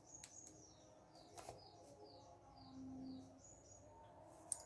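Near silence with faint bird chirping: a series of short, high chirps, each sliding downward, repeating every fraction of a second. A couple of soft clicks break in, the sharpest near the end.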